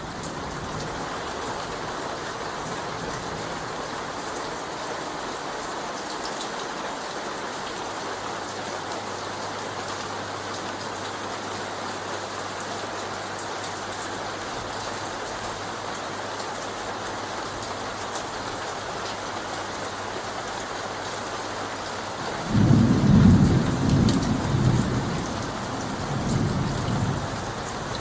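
Steady rain tapping on leaves. About 22 seconds in, a loud low rumble of thunder rolls for a few seconds and fades, then the rain carries on alone.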